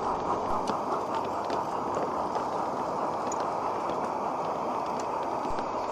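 Garden-scale model train running along its track: a steady rolling rumble of wheels on rail with a few faint clicks.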